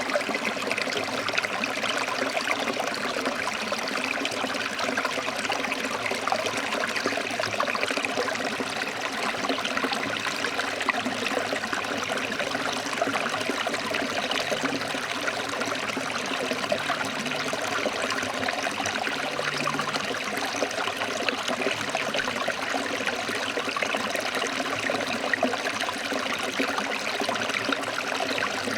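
Forest river or stream flowing over rocks: a steady, dense rush of water with constant small splashes and trickles.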